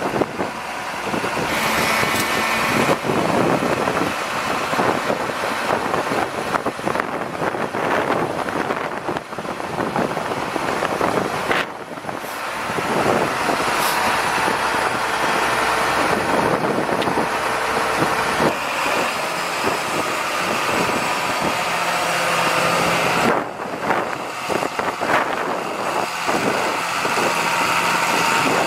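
John Deere 8100 tractor's six-cylinder diesel engine running steadily, with its level shifting now and then.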